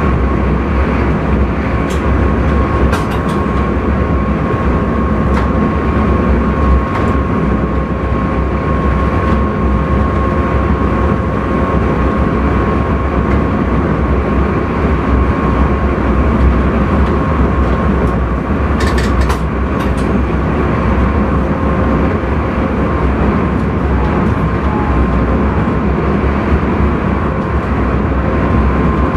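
Running noise of an intercity train heard from the driver's cab: a steady rumble of wheels on rail with a steady whining tone. A few sharp clicks come about two to three seconds in and again about nineteen seconds in.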